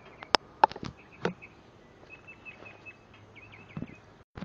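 A few sharp clicks or knocks in the first second and a half, then a small bird chirping in a quick run of short high notes.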